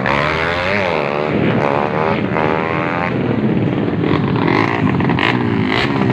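Several racing motorbike engines revving hard at once, their pitches sweeping up and down and overlapping as the throttles are blipped.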